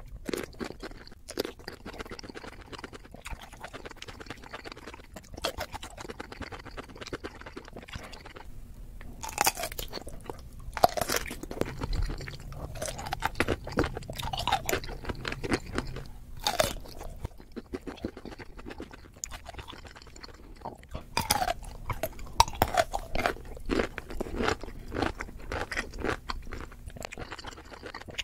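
Close-miked biting and chewing of whole pickles: crisp, wet crunches coming in several dense bursts of bites and chews.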